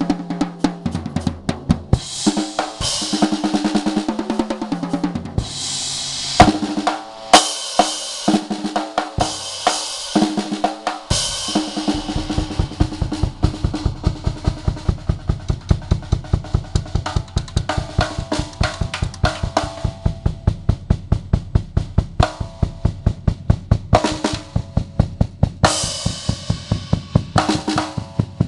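Five-piece Sound Percussion acoustic drum kit played as a fast solo: snare, toms and bass drum with crash-cymbal hits, the bass drum settling into a steady fast pulse about halfway through.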